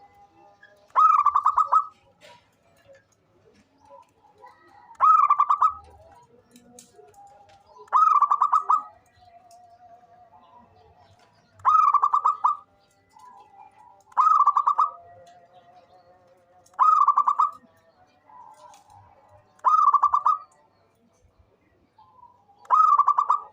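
A zebra dove (perkutut) singing: eight loud cooing phrases, each under a second and made of rapid stuttering notes, repeated every two to three seconds. Fainter, lower calls run between the phrases.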